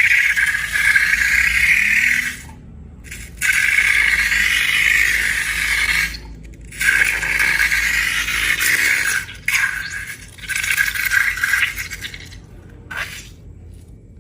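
Slime being worked by hand, crackling and scraping in several bursts of one to two seconds with short pauses between them.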